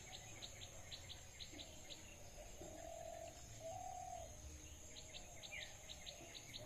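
Small birds chirping faintly in quick runs of short, high, repeated chirps, about two a second, with a few lower drawn-out calls in between.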